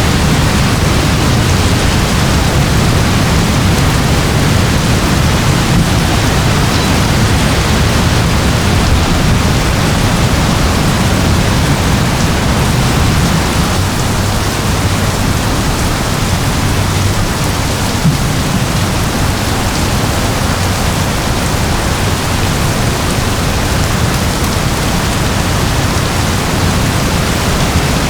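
Steady rain falling, an even unbroken hiss with a strong low rumble beneath it.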